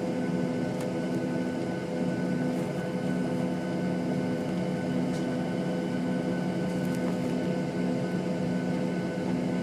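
Steady cabin drone inside a Boeing 737-700 on the ground: engine and air-conditioning hum with several steady tones, even in level throughout.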